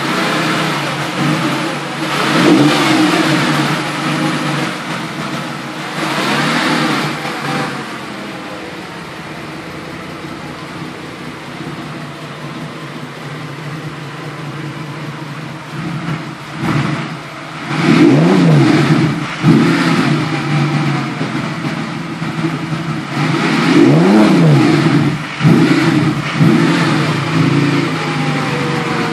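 Volkswagen W12 twelve-cylinder engine idling on its first run after being fitted to the car, blipped on the throttle four or five times, the revs rising and falling back to idle each time.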